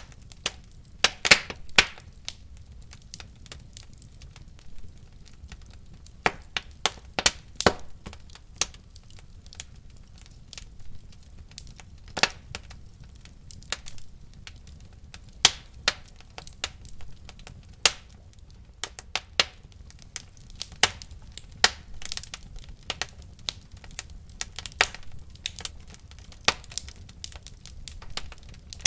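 Wood fire crackling in a fireplace: irregular sharp pops and snaps, some louder, over a low steady rumble of burning.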